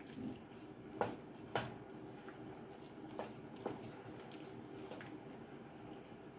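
Kitchen handling sounds: a few light clicks and knocks, two of them sharper about a second in, over a faint steady hum.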